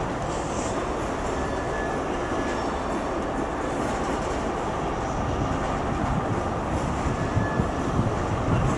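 Engineers' freight train of MRA ballast wagons, hauled by a Class 66 diesel, rolling slowly past: a steady rumble of wheels on rail, with a faint thin squeal from the wheels twice.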